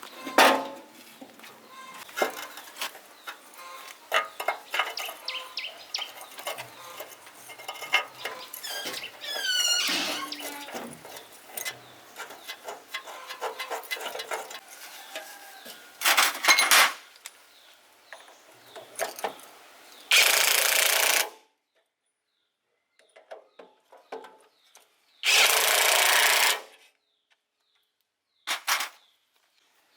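Hand work on metal machine parts: scattered clicks, knocks and clatter with a few brief squeaks. Later come two loud hissing bursts of about a second each.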